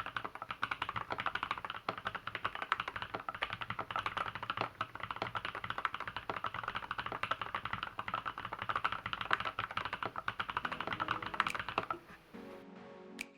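Fast, continuous typing on an LZ B7 custom mechanical keyboard with lubed switches and stabilizers, many key strokes a second. The typing stops near the end as music comes in.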